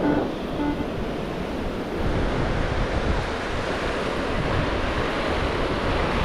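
Ocean surf washing in and out, with wind buffeting the microphone.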